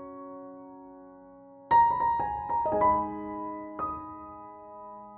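Background music: soft piano, a held chord fading, then a new chord struck about two seconds in with a few notes following.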